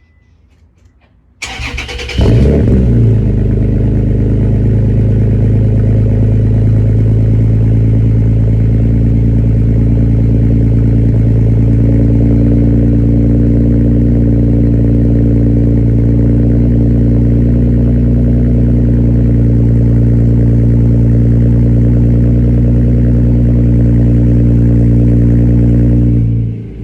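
Toyota Tacoma with a URD aftermarket exhaust cranked and started about a second and a half in, flaring briefly, then settling into a loud, steady exhaust idle with a deep low drone.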